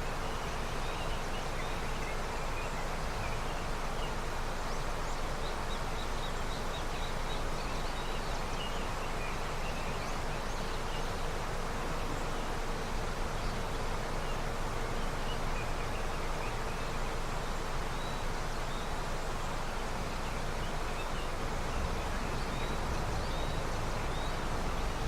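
River running high with snowmelt: a steady rush of flowing water, with faint, brief high chirps scattered through it.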